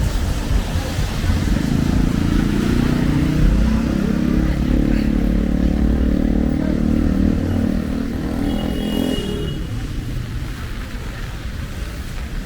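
A heavy motor vehicle's engine running close by for several seconds over steady street traffic noise, then dying away about nine seconds in. A brief high squeal comes just before it fades.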